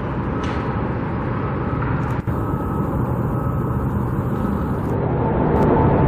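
Steady outdoor background rumble, with a brief dip about two seconds in.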